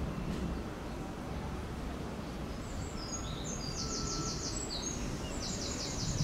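A small songbird singing rapid, high-pitched trilled phrases that jump in pitch, starting about two and a half seconds in, over a steady low rumble of background noise.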